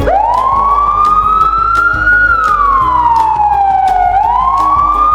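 Police car siren wailing, starting suddenly and sweeping slowly up and down in pitch, about one rise and fall every four seconds, over background music with a steady beat.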